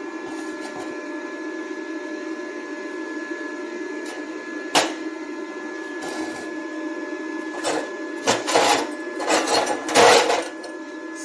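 Welding machine's cooling fan humming steadily. A sharp knock comes about five seconds in, then several short noisy bursts near the end.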